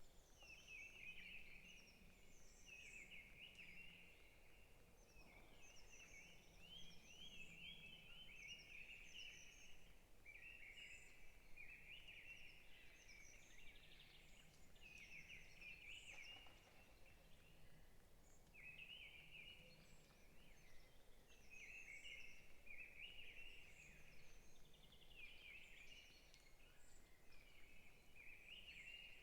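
Several songbirds singing in a forest: overlapping short chirping phrases and trills that follow one another almost without a break, with thinner high chirps above them, all faint.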